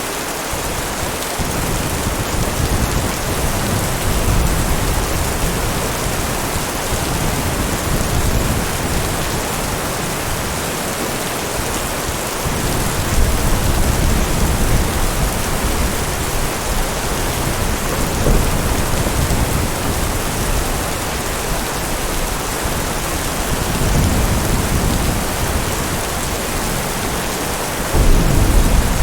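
Heavy rain falling steadily, with low rolling rumbles of thunder swelling up several times, the strongest near the end.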